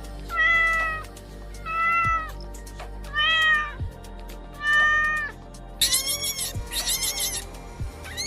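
A cat meowing four times, each meow under a second long, over background music. From about six seconds in, a quick run of higher, squeaky calls follows.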